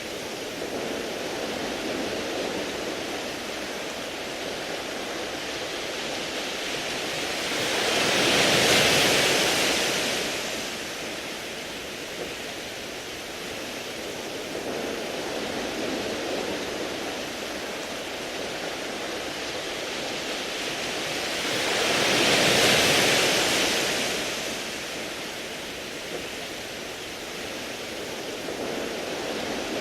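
Sea waves washing over a beach of smooth round pebbles: a steady hiss, with two bigger waves surging up and fading away, the first about a third of the way in and the second about three-quarters in.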